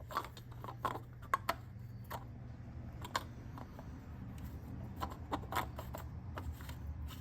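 Scattered light clicks and knocks of hand work under the hood as the oil filler cap is put back on, a few sharper taps among them, over a steady low hum.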